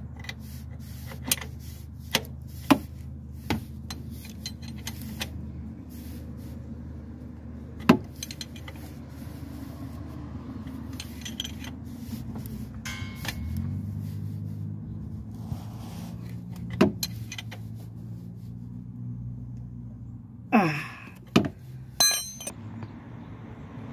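Metal tools and small metal parts clinking and tapping at irregular intervals while a neutral switch sensor's locking pin is fitted and its mounting bolt tightened, over a steady low hum. A louder cluster of clinks, with a short falling squeak, comes near the end.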